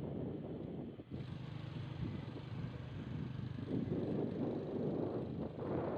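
A moving vehicle's engine running under dense low rumbling noise, with a sudden change about a second in.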